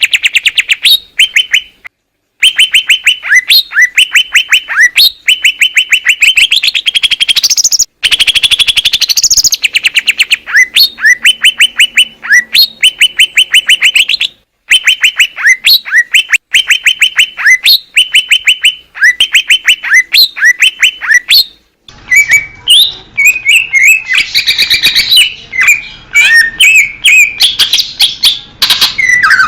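Cucak ijo (green leafbird) singing loudly: fast runs of short, repeated chirping notes, broken by brief pauses. A little over two-thirds of the way through, the song becomes a more varied, jumbled warble.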